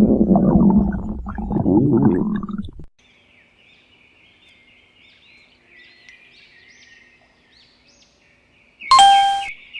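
Stomach growling: a loud, low, gurgling rumble that cuts off abruptly about three seconds in. Faint birdsong follows, and near the end a sudden, loud, pitched sound lasts about half a second.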